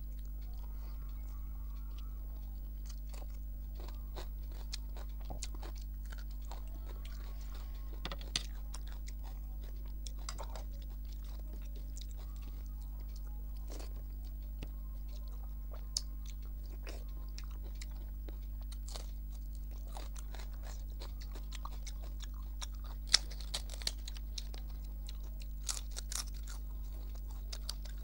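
A person eating a meal of rice and curry by hand close to the microphone: chewing, with many short, sharp crunches and clicks scattered throughout, the loudest about three quarters of the way through, over a steady low hum.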